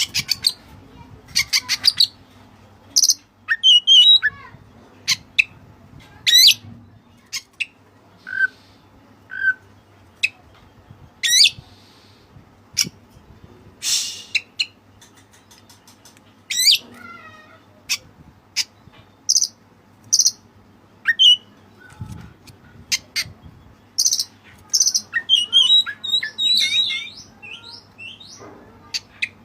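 Oriental magpie-robin (white-breasted kacer) singing a string of loud, sharp whistled notes and quick chirps, many sweeping up or down in pitch, with short pauses between phrases and a denser run of notes near the end.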